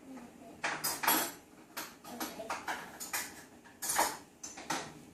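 Dishes and cutlery clinking and clattering as they are handled and set into a dishwasher rack, a string of sharp clinks, the loudest about a second in and again about four seconds in.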